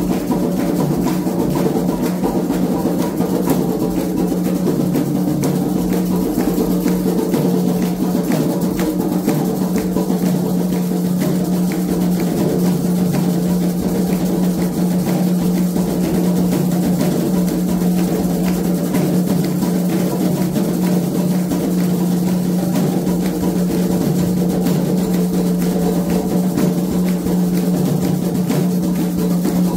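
Candomblé ceremonial drumming on atabaque hand drums, a fast continuous rhythm that keeps going without a break.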